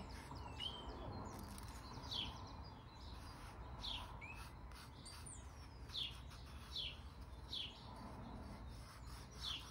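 A bird chirping faintly: short high notes that slide down in pitch, repeated about once a second, over a low steady hum.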